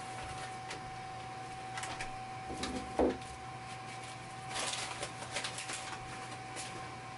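Rustling and scattered light knocks of cake-mix packaging and a mixing bowl being handled, with one louder knock about three seconds in, over a steady electrical hum.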